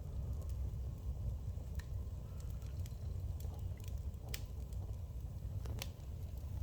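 Fire burning in a fireplace, consuming New Year pine decorations: a steady low rumble of the flames with scattered sharp crackles and pops, the loudest about four and six seconds in.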